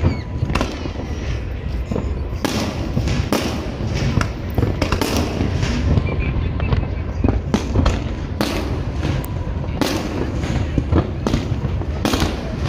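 Aerial fireworks bursting in quick succession: many sharp bangs and crackles over a continuous low rumble.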